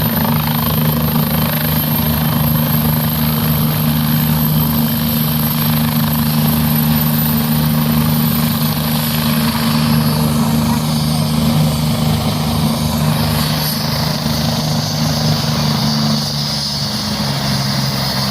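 Helicopter running steadily: a fast, even rotor beat under a low drone, with a faint high whine above it. About two seconds before the end the pitch drops slightly and the sound gets a little quieter.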